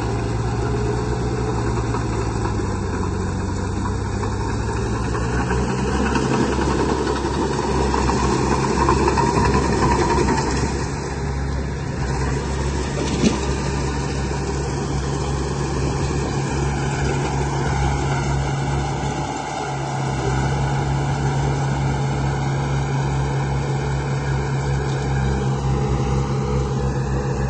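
Engine drone of a radio-controlled construction model running steadily, with a low throbbing pulse and small shifts in pitch, and one sharp click about halfway through.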